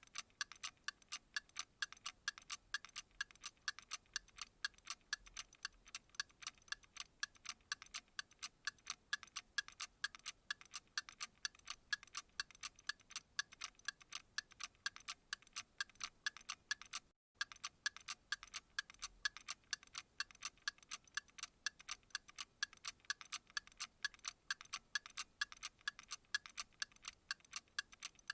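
Clock ticking steadily, several even, sharp ticks a second, with a momentary dropout about two-thirds of the way through.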